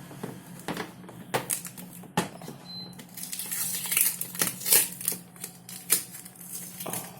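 Hands working on a new washing machine and its packaging: a string of irregular clicks and knocks, with a stretch of rustling and crinkling in the middle.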